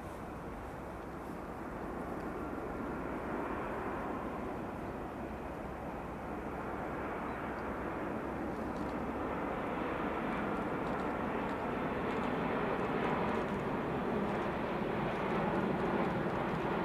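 Jet engine noise of an All Nippon Airways Boeing 787-10 Dreamliner, a steady rumble that grows gradually louder.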